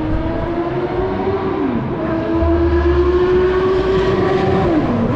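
Car engine accelerating hard on a racing circuit: its note climbs steadily, then drops sharply at each upshift, twice.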